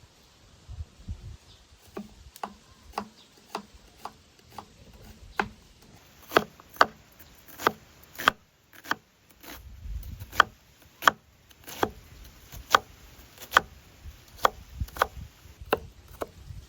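A knife chopping onion on a wooden cutting board: sharp, even knocks of the blade on the board, about one to two a second, getting louder after the first few seconds.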